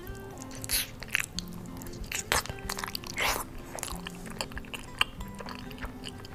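Close-miked wet chewing and smacking of a mouthful of cheesy baked lasagna, with several short, sharp mouth sounds, over soft background music.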